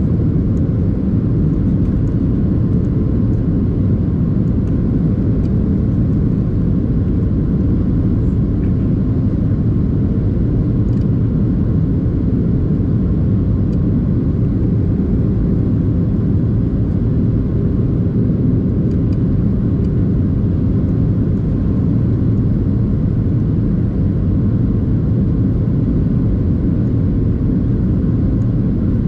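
Steady cabin rumble of a Boeing 737-800 in flight: airflow and CFM56 engine noise, low and even, with a faint steady hum.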